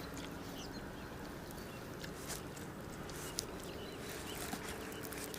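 Faint pond-side ambience: a few short bird chirps and scattered small clicks over a low steady hum.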